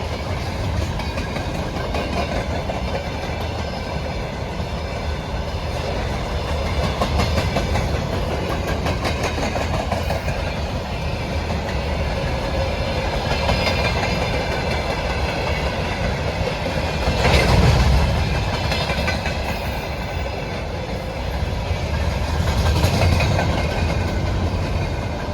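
Freight train's wagons rolling past, wheels clacking over rail joints with a continuous rumble and thin high squealing tones. It swells louder twice, about two-thirds of the way in and again near the end.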